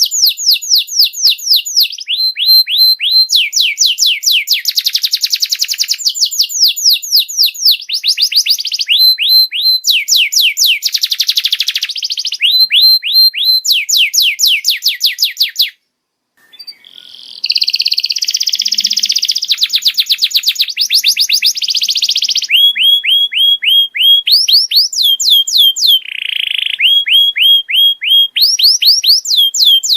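Domestic canary singing a long, loud song of rapid trills, each phrase a run of many quick repeated downward-sweeping notes before switching to a new phrase. There is a brief break a little past halfway.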